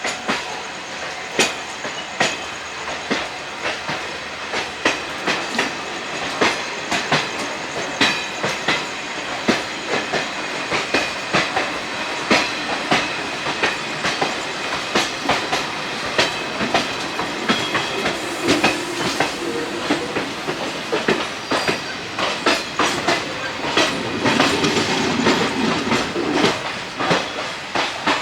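Passenger train in motion, its ICF coach wheels clicking and knocking over rail joints in a dense, irregular clatter above a steady running rumble.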